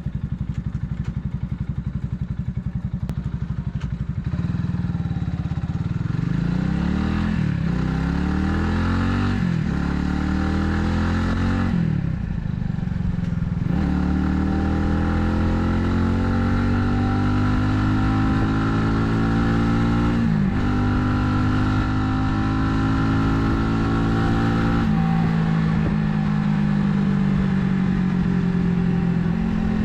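Italika 250Z motorcycle engine at low, steady revs for the first few seconds, then pulling hard. Its pitch climbs and drops back sharply several times as it shifts up through the gears, with longer pulls between the later shifts, then holds a steadier pitch in the last few seconds.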